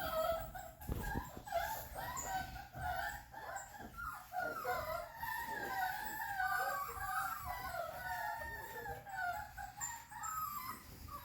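A litter of Rottweiler puppies whining and crying together, many high wavering cries overlapping, with an occasional low knock.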